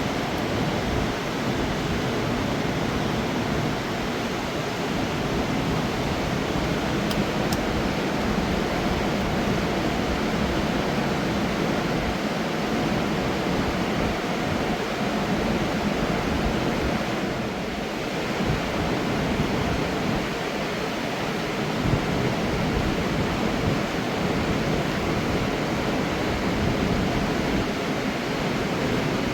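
Steady rushing of a fast mountain river, a continuous even wash of water noise.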